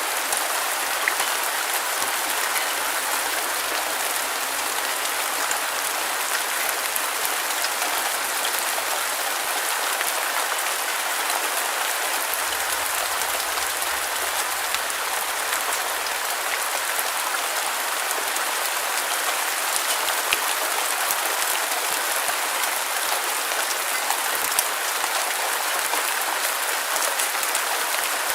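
Steady rain falling, a dense even patter of many drops with no thunder or gusts.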